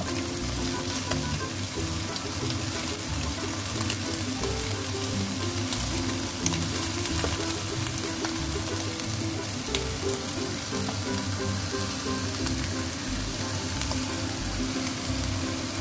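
Shredded cabbage and sliced onion sizzling as they are added to a hot non-stick wok with scrambled egg and stirred, with a few sharp ticks. Soft background music runs underneath.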